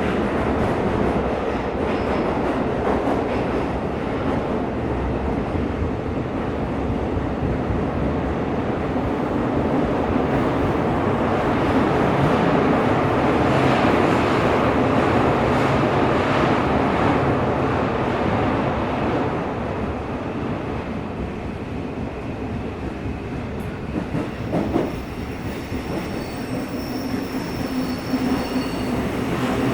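Tokyo Metro 17000 series subway car running through a tunnel, heard from inside the car: a steady rumble of wheels on rail, loudest about halfway through. Steady motor tones come in over the last few seconds.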